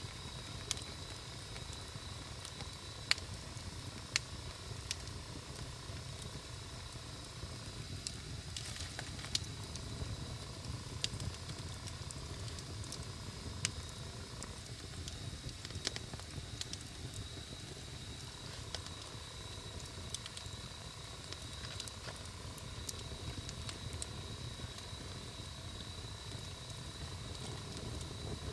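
Wood campfire burning, with scattered sharp crackles and pops of the burning wood over a steady low rumble of the flames. A faint steady high tone runs underneath.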